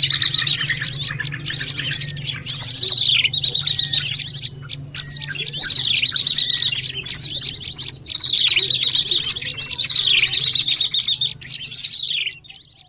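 A bird-lure recording of small songbirds chirping in a dense chorus: rapid high trills with down-slurred calls repeating every two seconds or so, over a steady low hum. It fades out near the end.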